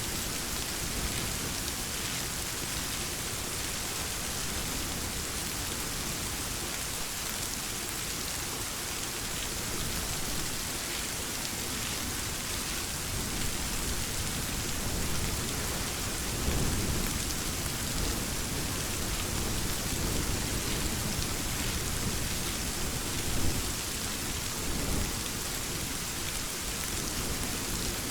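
Steady rain hissing on surfaces, with thunder rumbling low through the second half and one sharper, louder peak near the end.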